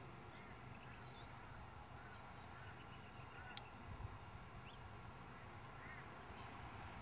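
Faint open-air ambience with a few short, faint bird calls scattered through it and one sharp click about three and a half seconds in.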